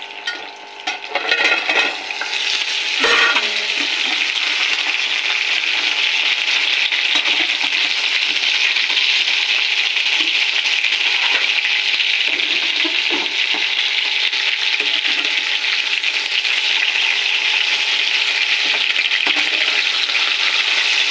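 Sliced potatoes frying in hot oil in a steel pan, a steady sizzle. In the first few seconds come a few metal knocks as the flat steel lid is taken off the pan.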